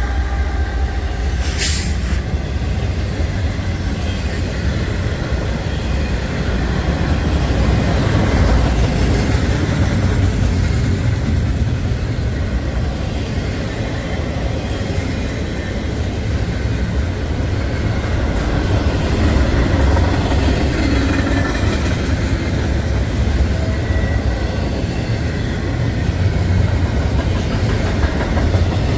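A train passing at close range: a steady, loud rumble of wheels and railcars. The tail of a horn blast fades at the very start, and a short sharp click comes about two seconds in.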